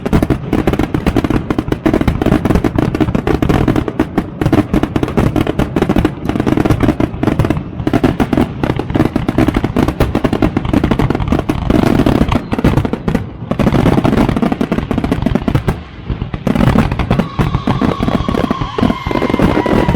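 Aerial fireworks going off in a rapid continuous barrage of bangs and crackling. Near the end a faint whistling tone sounds over the bangs.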